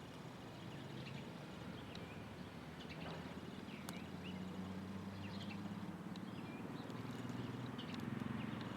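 Wild birds giving scattered short chirps and quick down-slurred calls, faint, over a low steady hum that grows a little louder toward the end.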